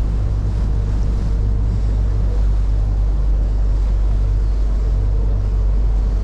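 Chao Phraya river ferry under way: a steady, deep engine rumble with water rushing against the hull and wind buffeting the microphone.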